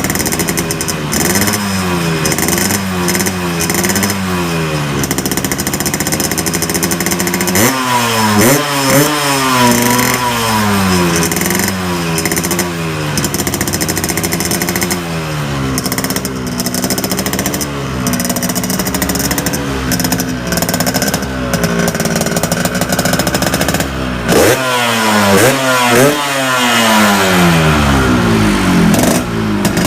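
Yamaha RX-King's two-stroke single-cylinder engine revved in repeated blips through a gutted ("bobok") exhaust, its pitch climbing and falling back again and again. The sharpest climbs come about eight seconds in and near the end.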